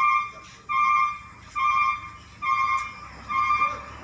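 Concrete mixer truck's reversing alarm beeping steadily, a little more than once a second, over the low rumble of its engine.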